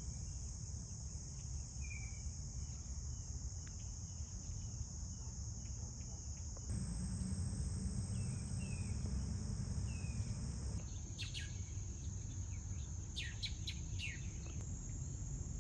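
A steady, high-pitched insect chorus, typical of crickets on a late-summer day, over a low outdoor rumble. A few short chirps come through, and the sound steps in level and pitch twice.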